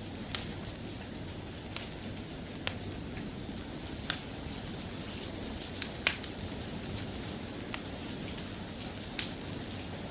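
Steady rain with a wood fire crackling in a fireplace: an even hiss with sharp, irregular pops every second or so, one of the loudest about six seconds in.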